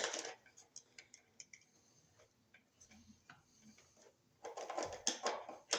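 Wires and wire nuts being pushed back into a metal Wiremold outlet box: scattered light clicks and taps, then a louder scraping rustle for about a second near the end.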